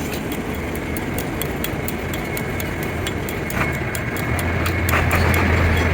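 A machine runs steadily with a low engine-like hum and a fast, even ticking of about five clicks a second.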